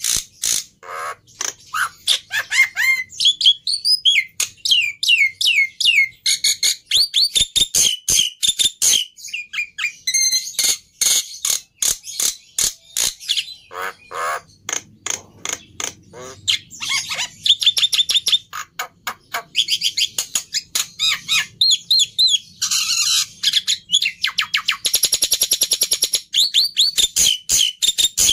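Black-winged myna (jalak putih) singing a loud, varied song of sweeping whistles, chattering notes and rapid strings of clicks, with a harsh buzzing rattle near the end.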